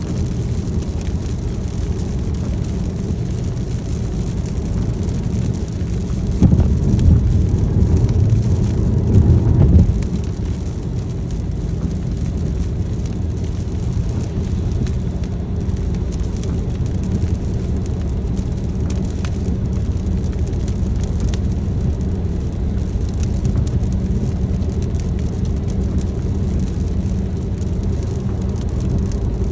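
A car driving in the rain: a steady hum of engine and road noise under an even hiss of rain. About six seconds in, a louder low rush swells for roughly three seconds, then drops back.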